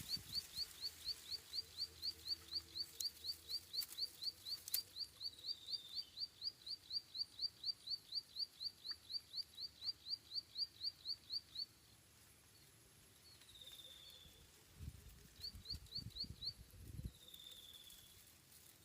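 A small bird calling: a rapid, steady run of short high chirps, about four a second, that stops about two-thirds of the way through, then a few single slurred falling notes and one brief burst of chirps. A few low rumbles come near the end.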